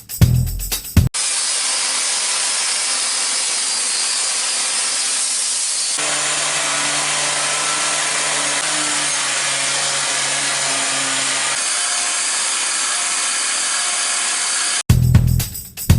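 Power sander working wood down to a bevel: a steady grinding hiss with no breaks, in edited stretches, a low motor hum joining about six seconds in. Background music with a beat plays briefly at the start and again near the end.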